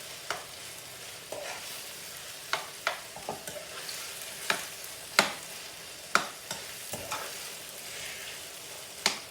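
Minced chicken frying in a pan with a steady sizzle while a utensil stirs it, knocking and scraping against the pan at irregular intervals, about once a second.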